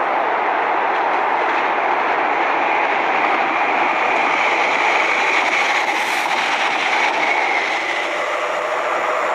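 Regional multiple-unit train passing along the track: a steady rushing of wheels and air, with a faint whine about five to seven seconds in.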